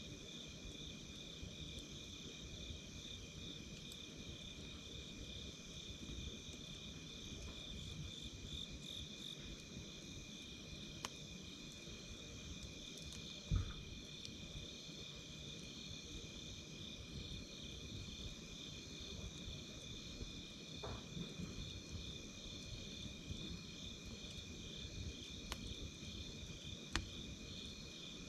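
Insects chirping in steady, pulsing trills, over a wood campfire with scattered sharp crackles and pops. A louder low thump comes about halfway through.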